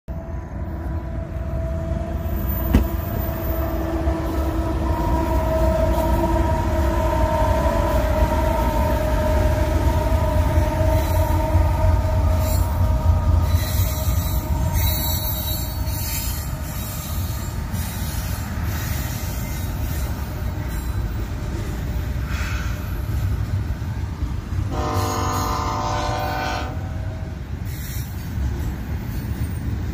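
A passing freight train: steady heavy rumble of locomotives and rolling cars with some rattling and squealing tones, and a short horn blast of about two seconds near the end.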